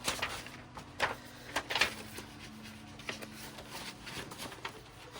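Paper pages being handled and shifted on a table, with a handful of short rustles and slides, the busiest in the first two seconds.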